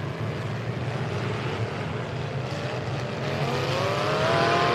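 Full-size demolition derby trucks' engines running, with one engine revving up in a rising whine from about three and a half seconds in, the loudest part.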